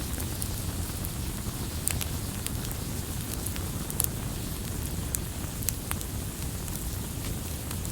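Campfire burning, with a low rumble of flames and irregular sharp crackles and pops of burning wood.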